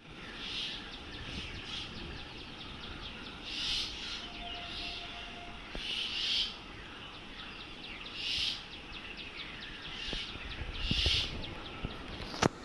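Wild birds quarrelling: harsh raspy calls repeating about every two to two and a half seconds over a constant fast, fine chatter, with one short steady whistled note near the middle. A single sharp click sounds near the end.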